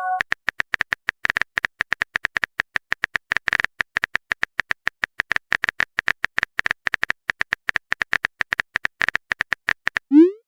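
Rapid, irregular clicks of a keyboard typing sound effect, several a second.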